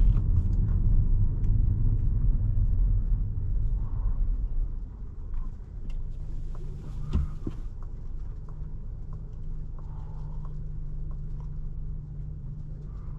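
Car-interior sound of a 2017 VW Jetta SE with its 1.4-litre turbo four-cylinder. Heavy road and engine rumble fades about four to five seconds in as the car slows. It leaves a steady low engine hum with scattered light ticks.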